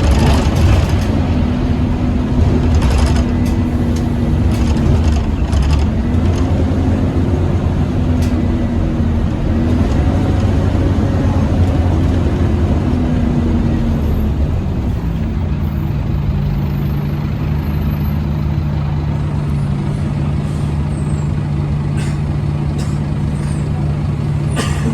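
Scania OmniCity double-decker bus running under way with the loud whine that earns this model the nickname 'hoover'. Its pitch rises and falls through the first half, then settles into a lower steady drone about halfway through.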